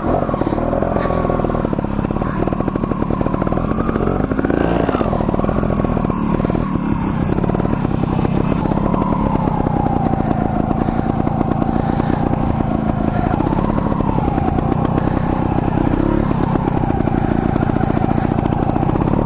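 Trials motorcycle engine running at low revs under light throttle, with brief rises in engine speed about four seconds in and again near thirteen seconds.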